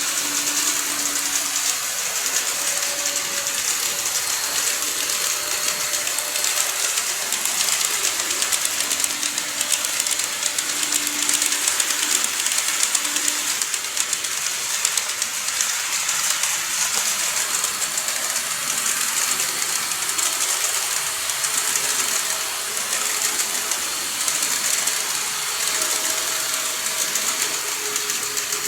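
Model train running on its track: a steady high rolling hiss of small wheels on rail, with rapid fine clicking and a faint, wavering motor whine.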